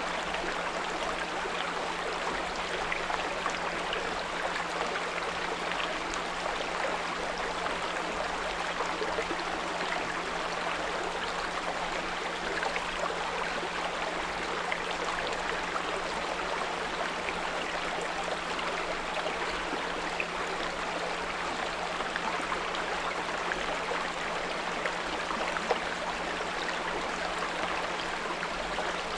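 Small brook babbling steadily over stones, with a constant low 174 Hz pure tone humming beneath the water.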